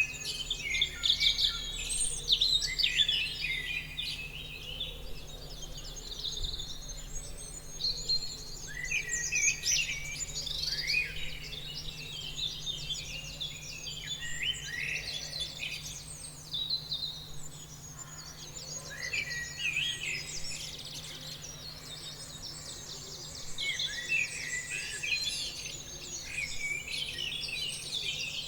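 Several songbirds chirping and singing at once, a dense run of quick overlapping chirps and trills with brief lulls. A faint steady low hum sits underneath.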